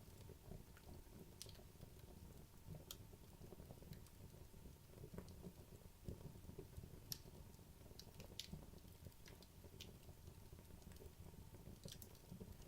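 Wood fire in a fireplace burning down, faint: scattered sharp crackles and pops from the burning logs, one or two a second, over a soft low rumble of the flames.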